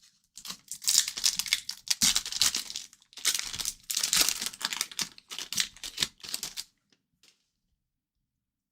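Hockey card packs (2023-24 O-Pee-Chee) being torn open, the wrappers crinkling in a run of crackly bursts that stop about two-thirds of the way through.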